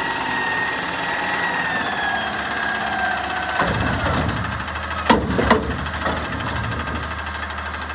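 Garbage truck running, with a whine that slowly sinks in pitch, then the engine's rumble rising about three and a half seconds in and a few sharp metallic bangs a second or so later.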